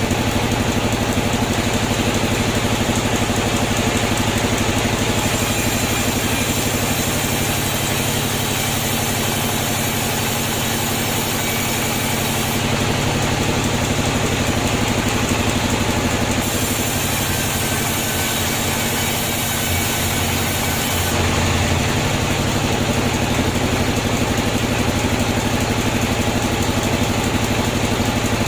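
Sawmill machinery running steadily with an engine-like hum, its tone shifting for several seconds at a time, twice.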